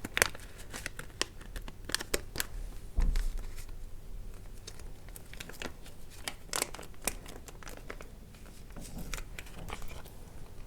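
Packaging crinkling and crackling as it is handled, opening a pack of eye patches. Sharp crackles come thick in the first few seconds, with a low thump about three seconds in, then sparser ones after.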